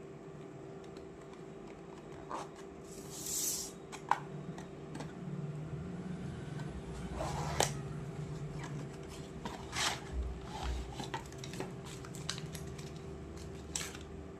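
Hair straightening cream packaging being handled and unboxed: scattered sharp clicks and taps of plastic tubes and caps, with rustling and a short hiss about three seconds in, over a faint steady hum.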